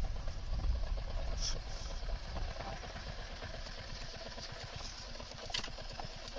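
Motorcycle engine running, its low rumble easing off early on into a steady, even idle.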